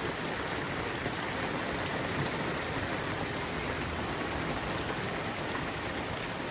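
Heavy rain falling and splashing on hard surfaces, a steady hiss.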